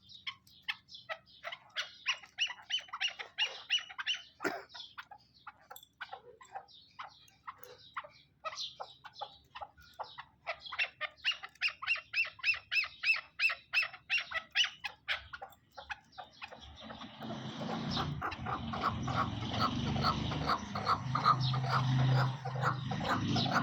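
Birds chirping in quick series of short calls and trills, followed by a louder, denser stretch of calling with low pulses from about seventeen seconds in.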